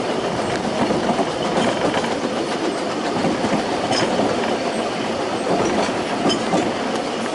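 Ffestiniog Railway narrow-gauge train running: a steady rumble of carriage wheels on the track, with occasional sharp clicks.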